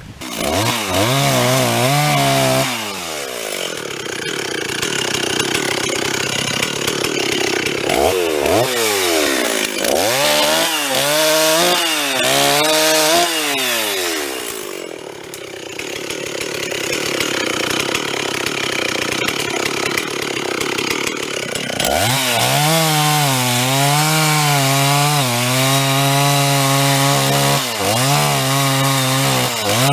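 Stihl two-stroke chainsaw running and cutting into a black cherry log, its engine pitch repeatedly dropping under load and climbing back as the throttle is worked.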